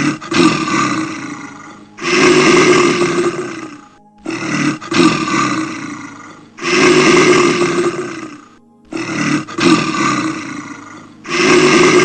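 A large animal roaring three times, each time a couple of short calls and then a long loud roar of about two seconds.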